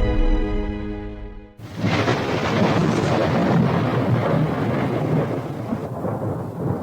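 A held musical chord fades out, and about a second and a half in a loud, steady rumble of thunder with rain cuts in.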